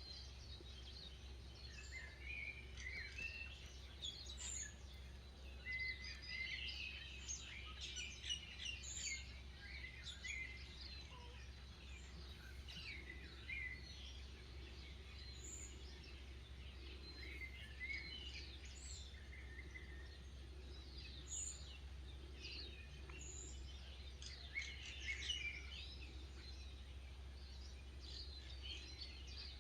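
Birds chirping and calling, many short high chirps from several birds at once, busiest in the first third and again near the end, over a faint steady low hum.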